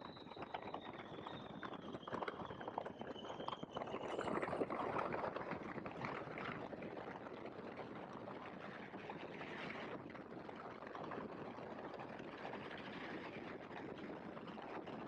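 Great Lakes open-cockpit biplane landing with its engine throttled back: a steady rush of wind and engine, with a high whine falling in pitch over the first few seconds and a louder rumble about four seconds in.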